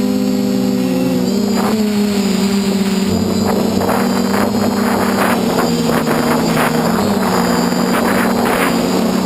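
DJI F450 quadcopter's four motors and 8-inch propellers buzzing steadily in flight, the pitch drifting slightly up and down with throttle. From about three seconds in, gusts of wind rush against the onboard camera's microphone.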